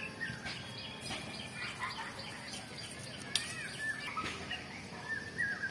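Small birds chirping, with short repeated up-and-down whistled notes that come thicker toward the end. A few sharp clicks and light rustles come through as well, the loudest a click about three and a half seconds in.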